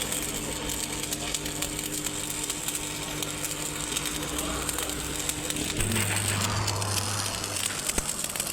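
Workshop machinery running with a steady hum and a constant tone, under a stream of irregular clicks and scraping; the tone drops out about six seconds in and a deeper hum takes over.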